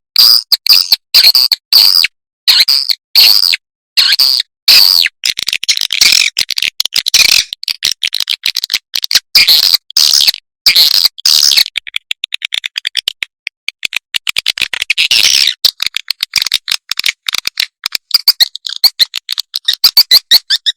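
Swiftlets twittering in rapid high chirps, cut into short bursts with dead-silent gaps between them, the bursts coming faster and closer together in the second half. This is an edited swiftlet lure track, the call and roosting sound played to draw swiftlets into a nesting house.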